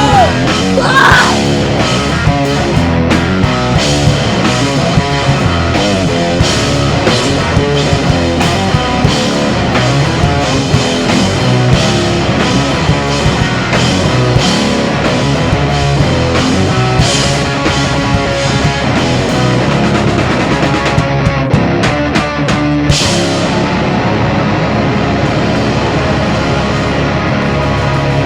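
Rock band playing an instrumental passage with no vocals: electric guitar and drum kit in a heavy, punk-style rock song.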